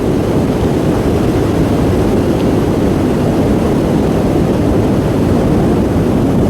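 Loud, steady wind rush and buffeting on the microphone of a motorcyclist riding along, with the visor held slightly open, mixed with the motorbike's running noise.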